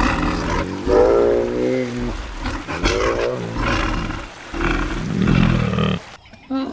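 Loud animal calls in a series: two pitched cries that bend in pitch, about one and three seconds in, then rougher, harsher calls that stop about six seconds in.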